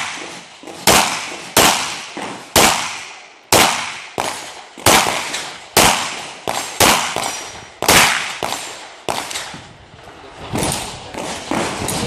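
Semi-automatic pistol firing a string of shots at a practical-shooting stage: about a dozen single shots and quick pairs at uneven intervals, each a sharp crack with a short ringing tail, the last few quieter.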